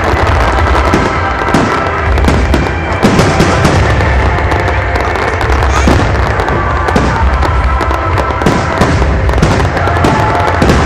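Fireworks display going off, a rapid run of bangs and crackles over a continuous low rumble, with music playing alongside.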